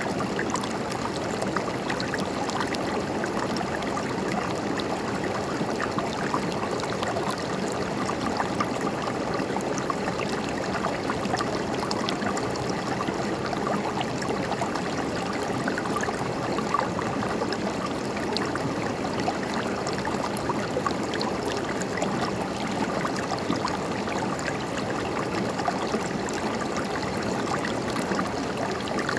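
A shallow river or stream running over rocks: a steady babble and gurgle of water with many small splashes and trickles, unchanging throughout.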